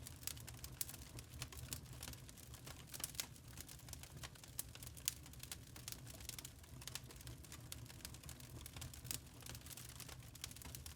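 Wood fire crackling softly in a fireplace: irregular sharp snaps and pops over a low steady rumble of the flames.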